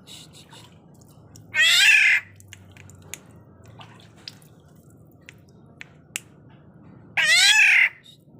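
Black-naped oriole giving two loud, harsh, nasal cat-like calls, each under a second long and about five and a half seconds apart, with scattered small clicks between them.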